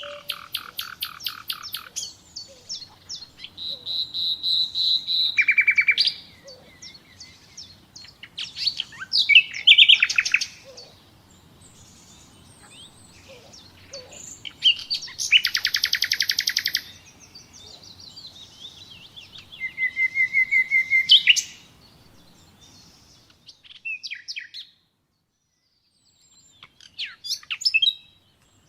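Common nightingale singing in separate, varied phrases of rapid repeated notes, trills and clear whistles, with short pauses between phrases.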